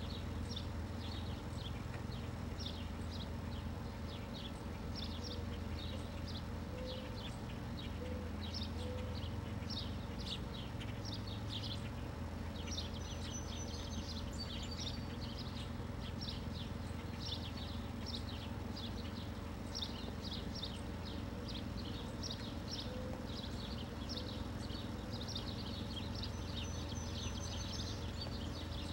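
Birds chirping over and over in quick short notes, with a couple of longer high whistles, over a steady low rumble.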